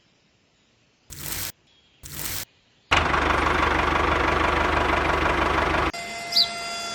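A small engine is cranked in two short bursts, then starts about three seconds in and runs steadily with a low knocking rumble for about three seconds before cutting off abruptly. After it, a quieter steady hum with high chirps follows.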